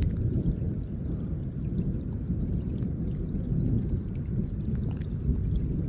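Thunder rumbling low and steady in a rainstorm, with a few faint ticks of rain.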